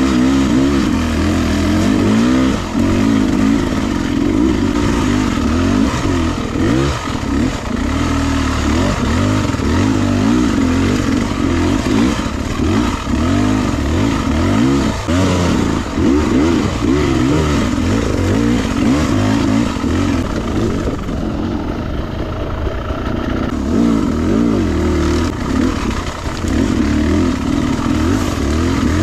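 Beta 300RR two-stroke dirt bike engine being ridden, its revs rising and falling constantly with the throttle, easing off briefly about three-quarters of the way through.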